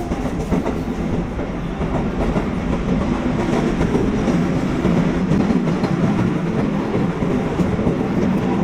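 Hankyu Kyoto Line train running between stations, heard from inside the car: a steady rumble of wheels on rail with a clickety-clack, growing a little louder as it goes.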